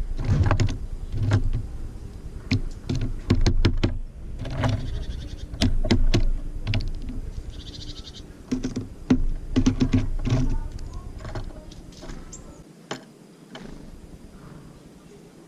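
Tits feeding at a bird feeder close to the microphone: a busy run of sharp taps and knocks from beaks and feet on the feeder, thinning out to a few taps near the end.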